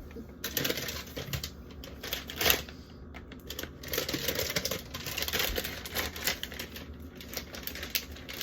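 Plastic food packaging and containers being handled and shifted about: a run of irregular clicks, taps and crinkles, loudest about two and a half seconds in.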